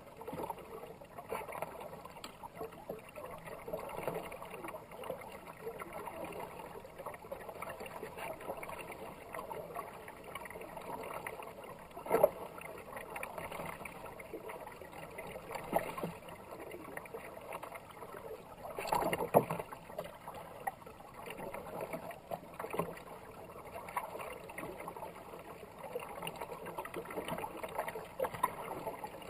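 Kayak paddle strokes splashing and dripping in fast-moving river water, with water rushing along the hull. There are a few sharper, louder splashes or knocks at intervals.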